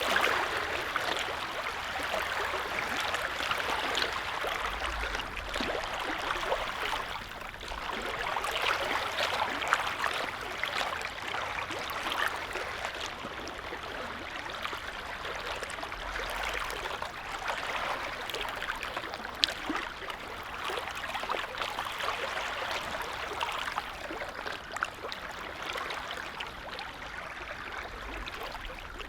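Small lake waves lapping and splashing: a steady watery wash broken by many small irregular splashes.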